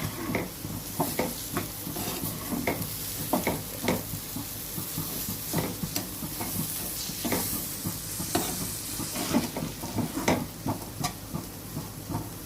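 A spoon stirring and scraping carrot fry in a pan, with irregular clicks of the spoon against the pan over a steady sizzle.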